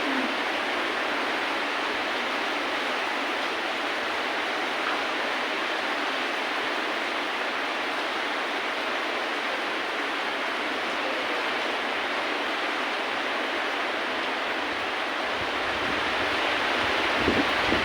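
Steady rain, an even hiss of falling rain with no music; near the end a low rumble with a couple of brief knocks comes in under it.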